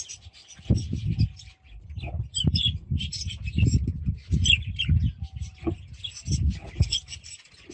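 Budgerigars chattering, with rapid high chirps and warbles going on continuously. Beneath them runs a repeated low, uneven sound.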